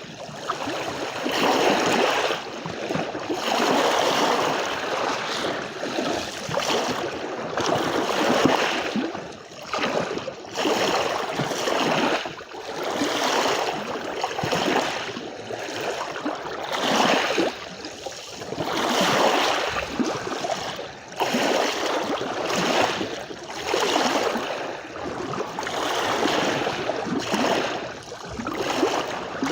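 Sea waves washing onto a beach, the rush of surf swelling and falling away every two to three seconds.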